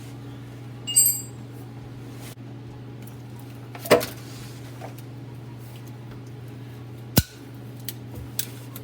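Three sharp metallic clanks, the first one ringing briefly, then a few lighter taps near the end, from metal knocking against metal while a tight reproduction rubber seal is forced into the engine compartment channel. A steady low hum runs underneath.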